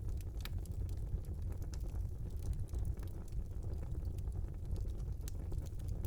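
Wood fire burning in a small fireplace: a steady low rumble of the flames with scattered sharp crackles and pops, a louder pop about half a second in and another near the end.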